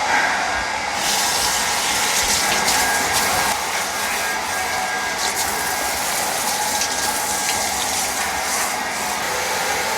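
Handheld shower spraying water onto a dog's coat, the hiss starting about a second in, over a steady hum with a thin whine like a running hair dryer.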